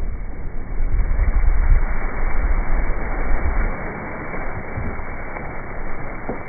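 Wind buffeting the microphone over a steady rush of water past a Laser sailing dinghy's hull. The low wind rumble eases a little past halfway.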